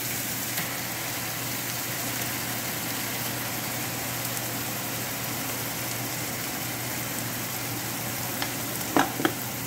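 Chopped onions frying in oil in a stainless-steel frying pan: a steady sizzle. Two short knocks come near the end.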